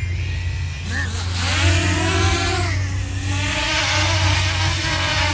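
DJI Mini 2 drone's motors spinning up about a second in as it lifts off, the propeller whine rising in pitch and then holding with a wavering pitch over a wide hiss. A steady low hum runs underneath.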